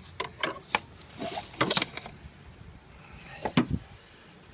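Scattered clicks and knocks of hands and tools handling a disconnected power steering hose in a car's engine bay, with a louder knock near the end.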